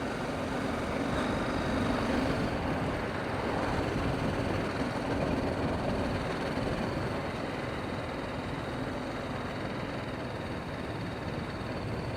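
Motorcycle under way in city traffic: the engine runs steadily under wind and road noise, a little louder about two seconds in.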